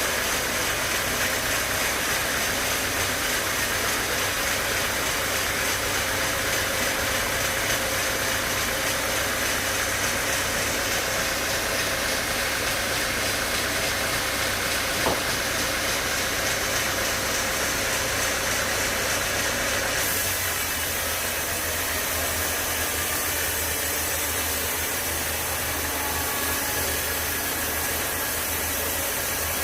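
Sawmill machinery running steadily, an engine or motor idling rather than cutting, with a single click about halfway and a slight change in its sound about twenty seconds in.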